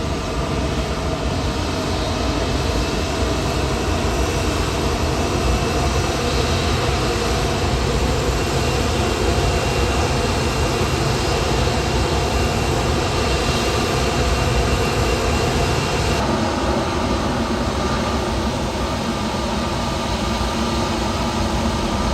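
Jet airliner engines running: a steady loud roar with a faint high whine. The sound changes abruptly about sixteen seconds in, to a different engine sound.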